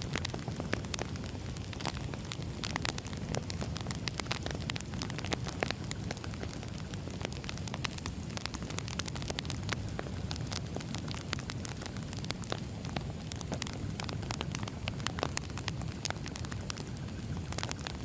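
Wood fire crackling: a steady low noise of burning with frequent small, sharp pops and snaps at irregular moments.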